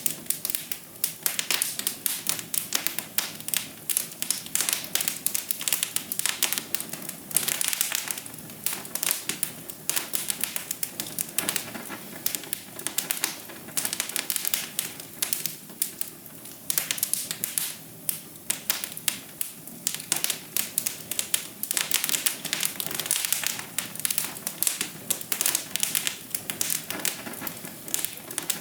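Wood fire crackling in a fireplace: dense, irregular pops and snaps in clusters every second or so, over a soft steady hiss.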